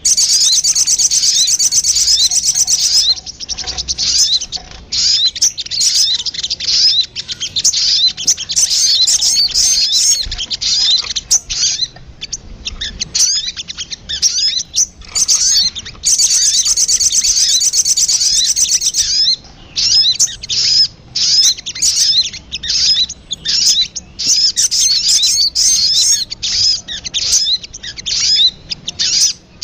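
Recorded little spiderhunter (sogon) calls used as a bird lure: a fast, high trill lasting about three seconds, then a run of separate sharp chips. About halfway through, the same trill-and-chips sequence starts again, as in a looped recording.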